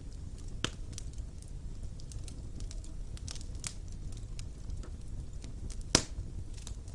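Wood fire burning in a stone fireplace: a steady low rumble with scattered crackles and a sharp pop about six seconds in.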